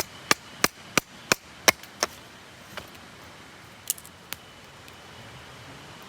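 Wood being chopped: a quick run of sharp knocks, about three a second, then a few scattered strikes.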